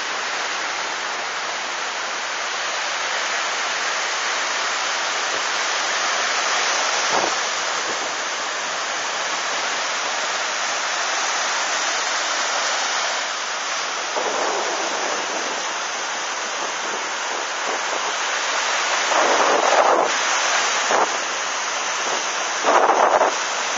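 Heavy ocean swell surging and breaking, mixed with strong wind buffeting the microphone, a steady rushing noise that swells louder twice near the end.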